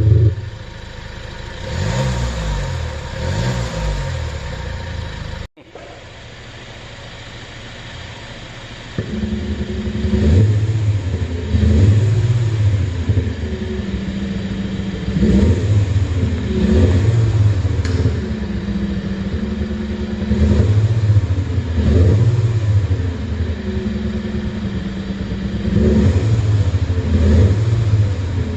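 Kia Sportage QL with a V-Sonic virtual exhaust sound generator, being revved in repeated short blips, each rising and falling in pitch, with the synthesized exhaust note over the engine. The sound cuts out sharply about five seconds in and stays quieter until the revving resumes steadily at about nine seconds.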